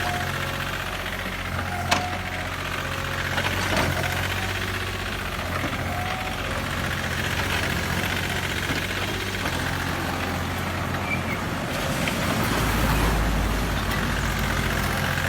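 Komatsu PC40 mini excavator's diesel engine running steadily, with a sharp knock about two seconds in. The low rumble grows heavier near the end.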